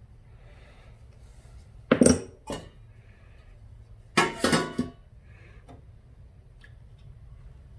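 Hard metal parts clinking and clattering as they are handled on a workbench: a short clatter about two seconds in and a longer one about four seconds in.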